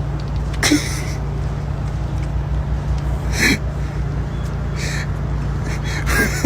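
Steady low mechanical hum, with four short breathy bursts, like snorts or gasps, spread a second or two apart over it.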